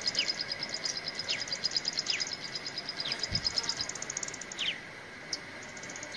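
Wild birds calling: a fast run of high chirps for about four seconds, with short falling whistles roughly once a second, over a faint steady high hum.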